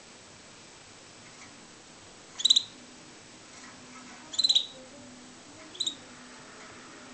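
Pet canary chirping: three short bursts of quick, high chirps about one and a half to two seconds apart, the last one briefest.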